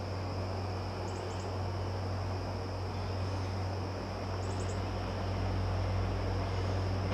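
Insects singing, with a steady high trill and short chirps about a second in and again after about four seconds, over a steady low rumble that grows slightly louder.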